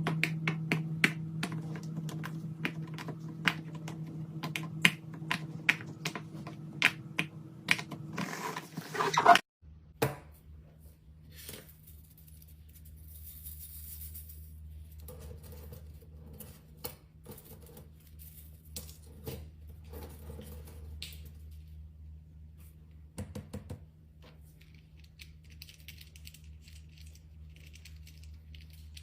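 Repeated sharp clicks and taps from small objects being handled, about two to three a second, over a steady low hum. About nine seconds in the sound cuts to fainter, sparser taps over a lower hum.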